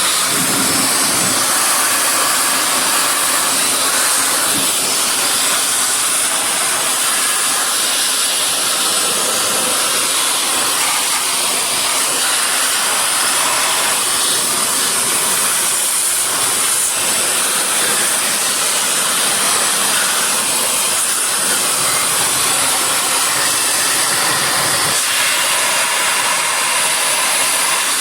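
Steady, high-pitched rush of blown air drying a freshly washed car engine bay.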